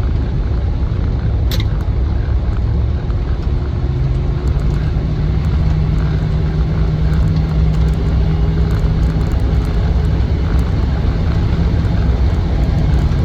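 Cabin sound of a Land Rover Defender 90's 4.0-litre V8 and its road noise while driving at speed on the automatic box: a steady low rumble, with a steady hum setting in about four seconds in. A single short click about a second and a half in.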